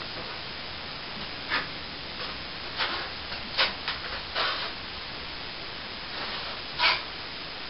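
Plastering trowel spreading a coat of wet plaster over a ceiling patch: a few short scraping strokes against a steady hiss.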